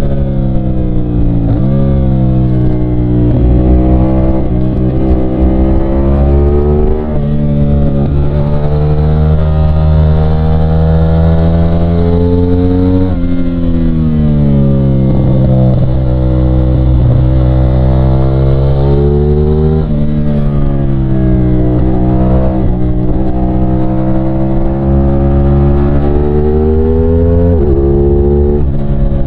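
CFMOTO 450SR's 450 cc parallel-twin engine under way, its pitch repeatedly climbing under throttle and then dropping, sharply at some points and gradually at others, as the bike accelerates and eases off.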